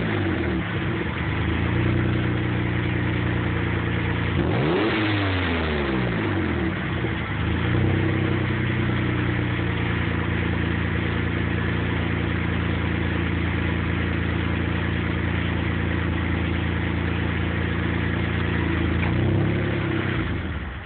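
Dodge Stealth's 3.0-litre V6 through a Tanabe aftermarket exhaust, revved and idling. The revs fall back at first, a quick blip about four and a half seconds in, then a steady idle with a small blip near the end.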